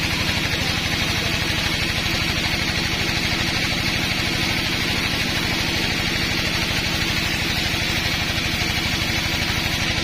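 Sawmill machinery running steadily: an engine with a fast, even pulse under a constant hiss, with no change in load.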